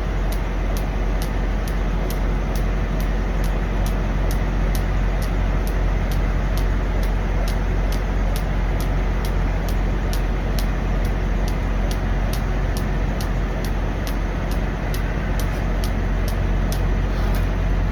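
Steady low drone of idling diesel truck engines, with a faint regular ticking about three times a second.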